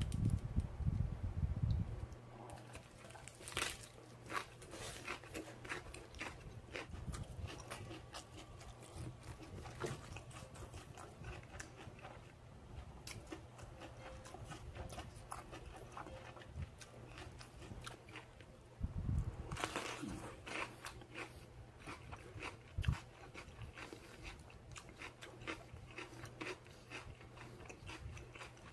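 Close-up chewing and crunching of food: a person eating wood-charcoal-grilled pork belly bossam, with many small mouth clicks and crunches. There are a few louder low thuds near the start and again about two-thirds of the way through.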